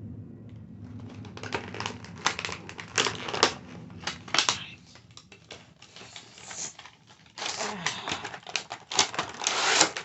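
Rapid, irregular close-up tapping and clicking on hard objects, ASMR style. The taps thin out in the middle and get busier again near the end, where there is a short rustle.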